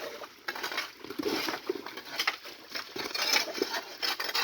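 Irregular clatter of small knocks and scrapes, hard objects striking one another at an uneven pace.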